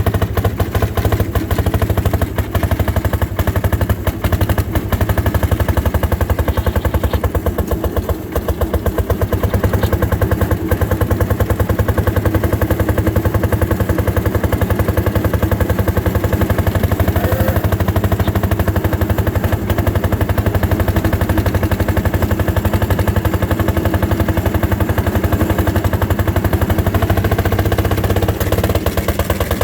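Fairmont M-19 rail motor car's single-cylinder two-stroke engine running under load up a grade, its exhaust firing in rapid, even beats.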